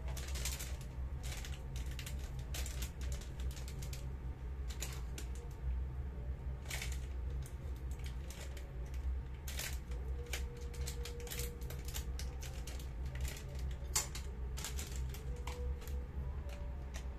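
Fried rice crackling as it cooks in a small electric frying pan: irregular sharp ticks and pops over a steady low hum.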